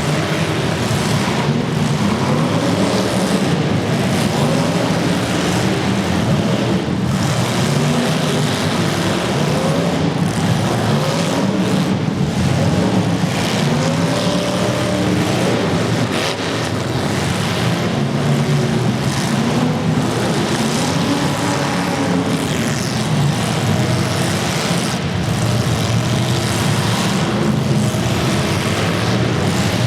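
Several demolition derby cars' engines revving up and down, with short bangs scattered through of cars hitting each other.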